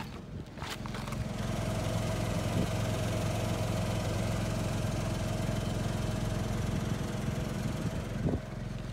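Toyota Vitz's 1KR 1.0-litre three-cylinder petrol engine idling steadily, heard from under the car by the exhaust, with one brief knock near the end.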